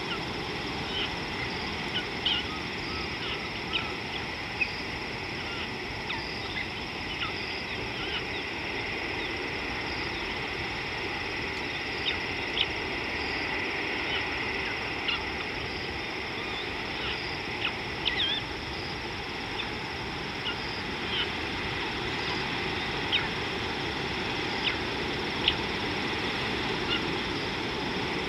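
Wild birds calling with short, scattered chirps over a steady outdoor hiss, with a faint high note repeating about every second and a half.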